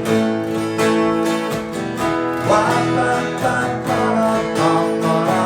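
Acoustic guitar strumming chords in an instrumental passage between a song's sung lines.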